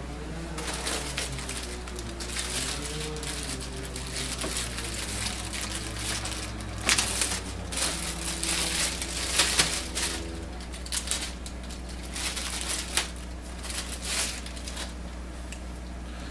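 Handling noise: plastic crinkling and rustling with irregular clicks and knocks, a few sharper ones about seven and nine and a half seconds in.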